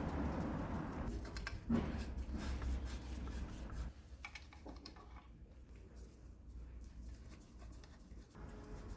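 Close-up handling sounds of tool parts: scratching and a few sharp clicks, with one louder knock about two seconds in, then much quieter from about four seconds on.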